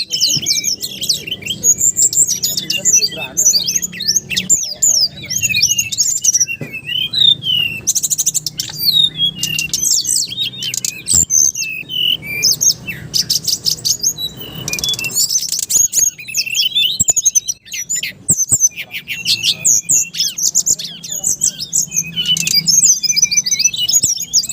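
Songbirds calling in a dense run of rapid, high chirps and trills that overlap one another, over a faint low hum.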